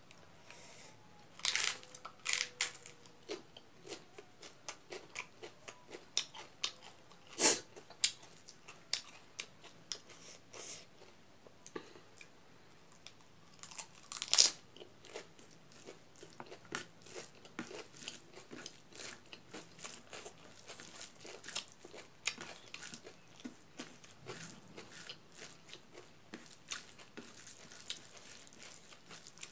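Close-up eating sounds: steady chewing and wet mouth clicks, with several sharper crunchy bites. The loudest bites come about 7 and 14 seconds in.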